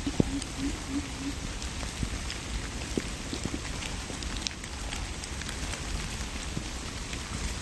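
Steady patter of light rain, with scattered small drop ticks and a few soft knocks.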